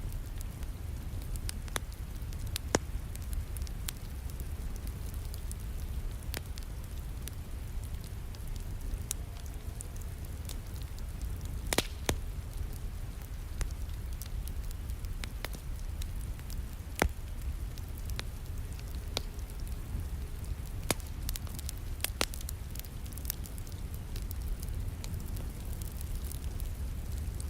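Wood fire crackling in a fireplace, with scattered sharp pops, over a steady low rumble and the even hiss of falling rain.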